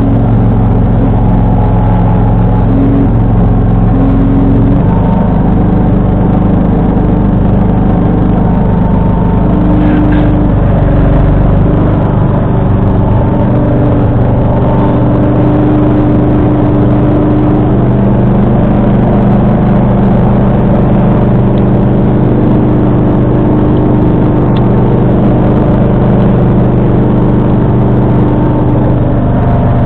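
John Deere 445 garden tractor's V-twin engine running steadily while driving a 47-inch front snowblower, its note shifting in pitch a few times.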